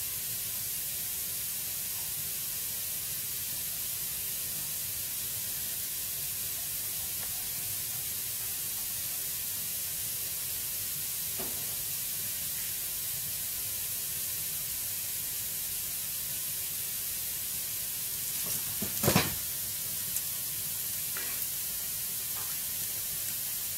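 Dry firewood burning in an indoor fireplace: a steady hiss with a few sharp crackles, the loudest a quick cluster of pops about nineteen seconds in.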